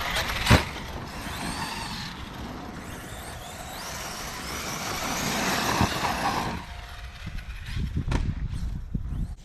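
Arrma Kraton 6S electric RC monster truck running, its brushless motor whining up and down in pitch as it speeds up and slows over a steady hiss of the tyres on wet ground. A hard thump about half a second in, and a few knocks near the end as it drops back.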